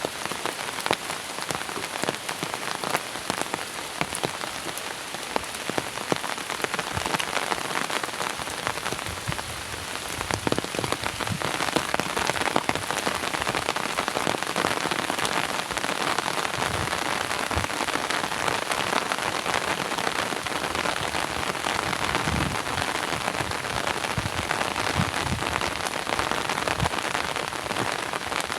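Heavy rain pouring steadily, with countless drops hitting surfaces. It grows a little louder about a third of the way in.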